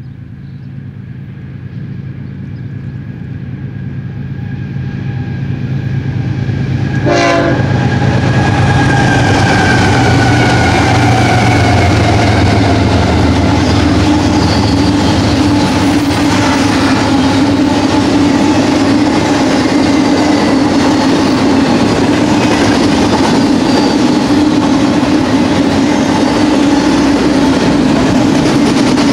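Fast BNSF intermodal freight train passing close: its four GE diesel-electric locomotives approach, growing steadily louder for about seven seconds, with a sharp knock as the lead unit comes by and tones that drop in pitch as the locomotives pass. The double-stack container cars then roll by with a loud, steady rumble and clatter of steel wheels on rail.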